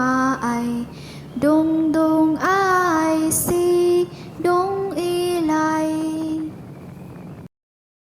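A high voice singing the closing lines of an Ilocano song in long held notes that glide between pitches. The singing stops abruptly about seven and a half seconds in.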